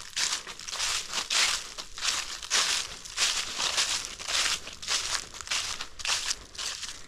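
Footsteps crunching through dry fallen leaves at a walking pace, about two crunches a second.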